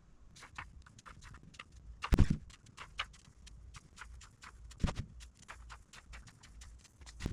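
Irregular light clicks and taps, with two heavier thumps about two and five seconds in: the knocks of hands working with tools and materials on a wooden wall.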